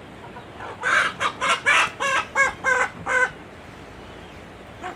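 Chicken calling: a quick run of about nine loud, harsh calls, one after another, lasting under three seconds.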